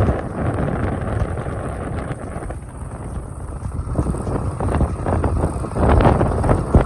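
Low, rough vehicle rumble mixed with wind buffeting the microphone, with a few knocks about six seconds in.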